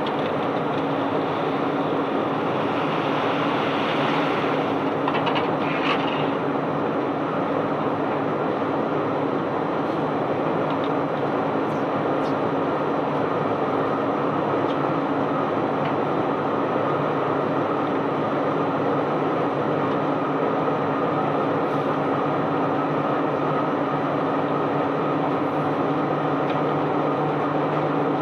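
Limestone flowing out of a barge during unloading: a continuous noisy rush with a steady machinery hum beneath it, unchanging throughout.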